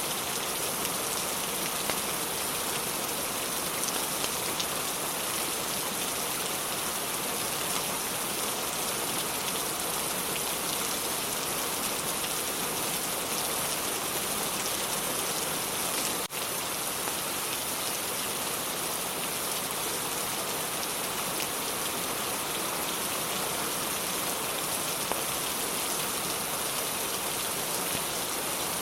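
Steady, dense rain falling on a surface, an even hiss with fine patter, which dips for an instant about halfway through.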